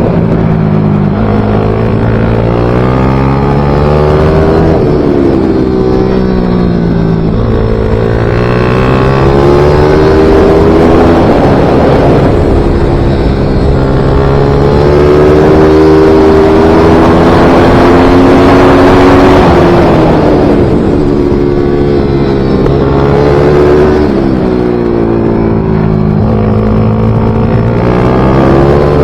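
Small single-cylinder MiniGP / pit bike racing engine at full throttle, rising in pitch as it accelerates and dropping back as it shifts and brakes, again and again around the track.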